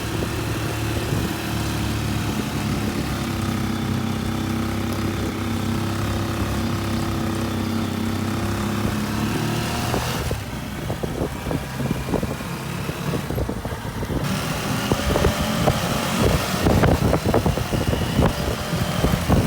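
Small motor vehicle engine running steadily. From about ten seconds in, irregular knocks and rattles sound over it.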